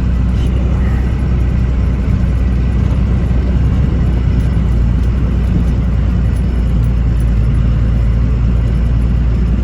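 Vehicle engine running steadily with a low rumble while driving slowly, heard from inside the cab.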